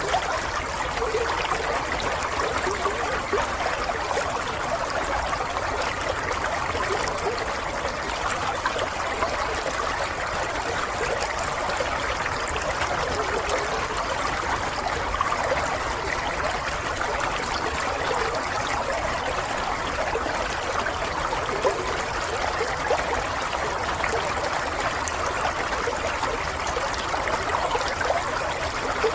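Water running and trickling steadily, like a small stream flowing over stones, with a continuous burble and small splashes.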